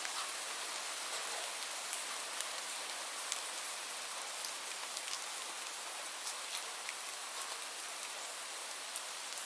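Steady rain falling, an even hiss with individual drops ticking sharply every so often.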